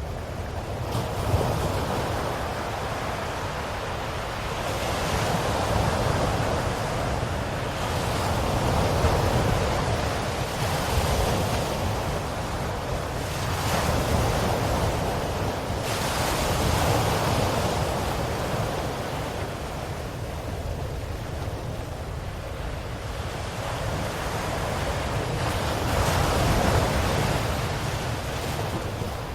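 Ocean waves breaking and washing on a shore: a steady surf hiss with a low rumble, swelling and falling back as each wave comes in every few seconds.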